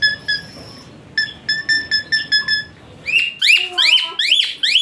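Asian pied starling (jalak suren) singing a rapid run of short, high whistled notes, broken by two brief pauses. About three seconds in it switches to louder, sharp rising-and-falling shrill notes, about three a second.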